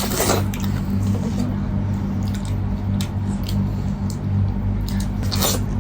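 Close-up eating sounds: wet chewing and lip smacking with scattered short clicks, over a steady low hum.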